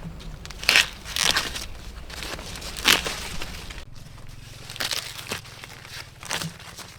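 Dry corn leaves and husks crackling and crunching in irregular bursts as corn is harvested by hand.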